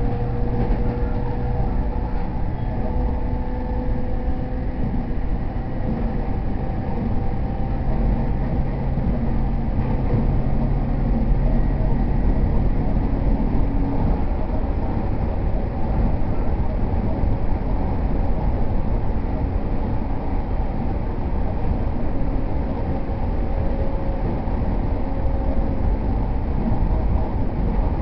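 JR East E231 series 0 commuter electric train running between stations: a steady low rumble of wheels on rail, with faint humming tones that fade out during the first half.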